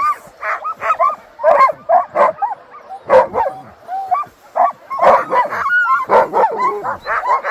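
A pack of sled dogs yipping, whining and barking, many short rising and falling calls overlapping one another.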